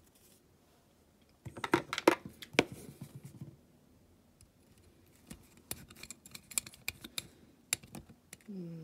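Small hard clicks, taps and clinks of metal parts and tools being handled on a workbench while fitting a die-cast toy van together, in a busy cluster about a second and a half in and scattered single clicks later on.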